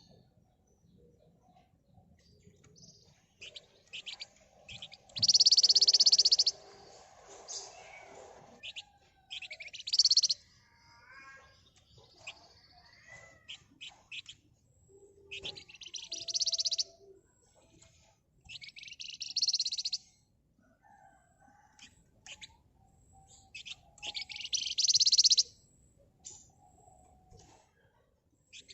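Flamboyan (wergan Jawa) songbird singing in rapid, tight high trills, its 'ngebren' chatter, in about five loud bursts of a second or so each. Softer chirps and short whistles fill the gaps between them.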